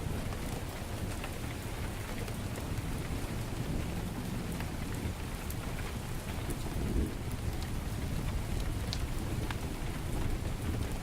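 Heavy rain pouring steadily, with a deep low rumble beneath it that swells briefly about seven seconds in. Scattered sharp crackles and pops from a wood fire in a fireplace sound over the rain.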